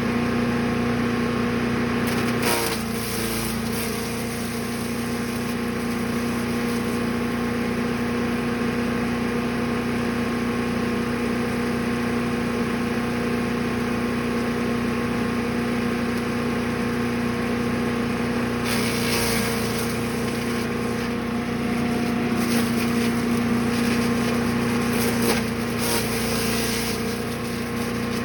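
Brush Master 3-in-1 chipper/shredder's gas engine running steadily at a constant pitch, with a few short bursts of louder noise on top: about two seconds in, about two-thirds of the way through, and again near the end.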